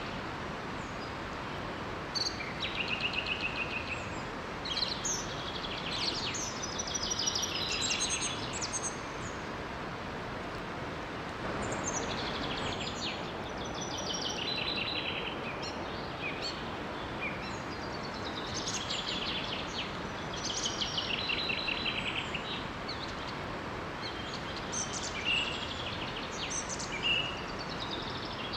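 Songbirds singing in repeated chirping phrases and trills every few seconds over the steady rush of a small waterfall.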